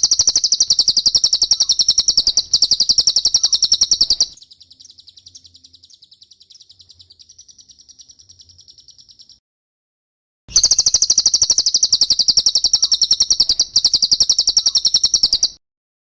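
Cililin bird call used as a training recording: fast, high-pitched trills of rapidly repeated notes in loud phrases. A softer trill runs for about five seconds in the middle, followed by a short pause before the loud trill resumes.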